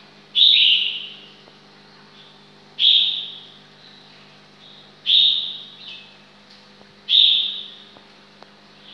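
A bird calling four times, about every two seconds; each call is a loud, sharp, high chirp that starts abruptly and falls slightly in pitch as it fades.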